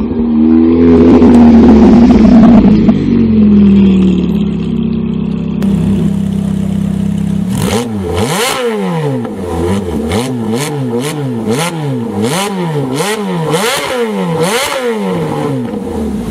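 Ferrari F430's V8 through a Capristo exhaust: loud at first with its pitch falling, settling into a steady idle, then revved in a run of about eight quick blips, roughly one a second, before dropping back to idle near the end.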